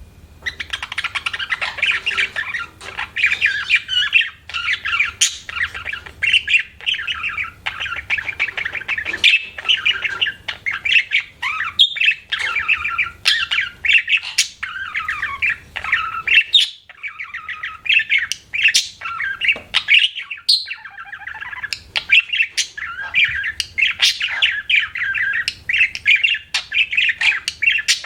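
Budgerigar warbling and chattering without pause: a fast, dense run of chirps and sharp clicks that starts about half a second in.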